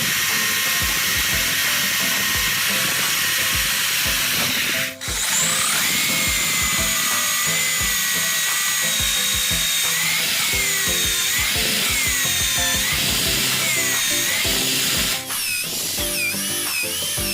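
A power tool's motor whining steadily over background music. The whine stops abruptly twice, about five seconds in and again near fifteen seconds, and wavers in pitch near the end.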